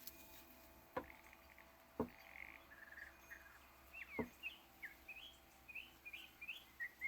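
Faint backyard birds chirping in short, quick notes that get busier in the second half. Three light taps sound at about one, two and four seconds in.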